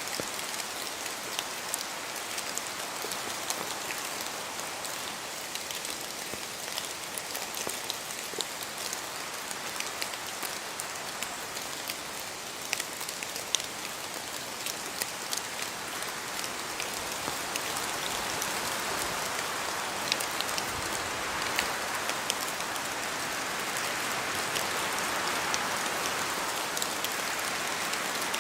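Steady rain falling through forest trees, with many separate drops ticking on leaves over a constant hiss, and wind blowing through the trees. The sound grows a little louder and fuller in the second half.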